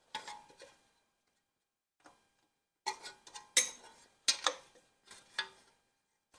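Hand tools and metal parts clinking in several short, irregular bursts of sharp ticks with a brief metallic ring, as parts are worked off an engine.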